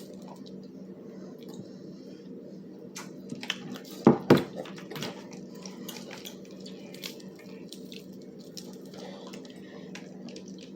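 Eating and food-handling noises: scattered small clicks and squishy sounds over a steady low hum, with two loud knocks about four seconds in.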